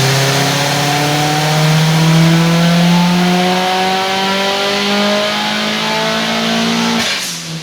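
Turbocharged flat-four of a built 2011 Subaru STI with an FP Blue turbocharger, under load on a chassis dyno: the engine note climbs steadily in pitch for about seven seconds, then the throttle closes and it drops off suddenly near the end.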